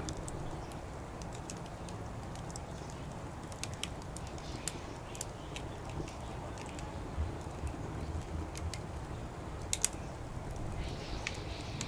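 Wood fire crackling, with irregular sharp snaps and pops scattered through, two of the loudest close together near the end, over a steady low background rumble.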